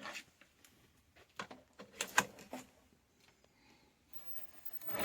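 A few light clicks and taps, scattered irregularly over a quiet background.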